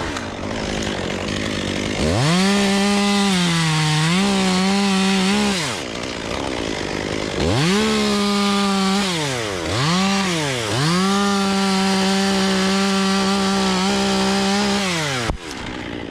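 Two-stroke chainsaw revved to full throttle and cutting, its pitch dipping briefly under load, then dropping back to idle. After two short blips of the throttle it runs flat out again for about four seconds before letting off near the end.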